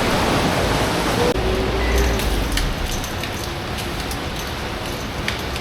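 Steady rain falling, an even hiss that thins a little about a second in, with a brief low rumble shortly after and a few faint drip-like ticks.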